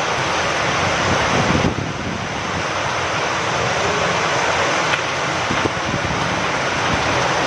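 Steady rain falling with wind, a dense even hiss that eases briefly about two seconds in.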